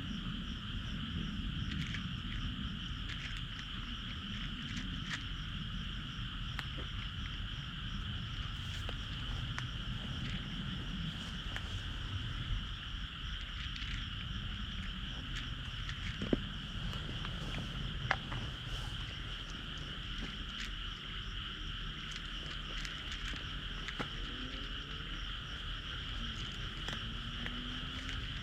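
A steady, unbroken chorus of frogs calling over a low rumble, with a few sharp clicks around the middle.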